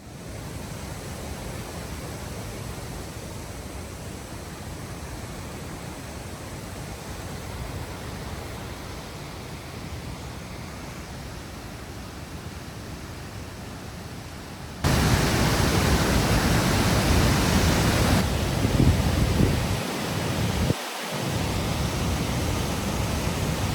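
Roar of the Great Falls of the Passaic River, a steady rushing noise that jumps louder about fifteen seconds in.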